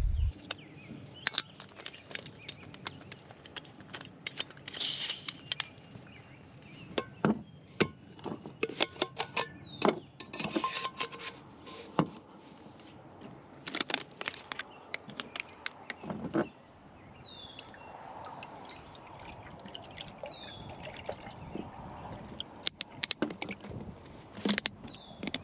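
Jetboil camp stove and its cup being handled, with repeated clicks and clinks, and water being poured.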